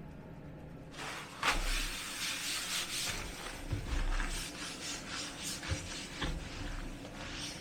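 Irregular scratchy rubbing and rustling with scattered small clicks, starting about a second in.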